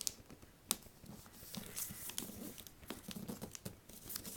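A sheet of paper being folded and creased by hand: soft crinkling and rustling, with a couple of sharp taps or clicks, one about three quarters of a second in.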